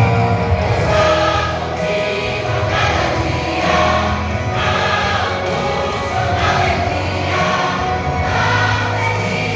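A vocal group singing a gospel song in several voices, with a band accompanying underneath.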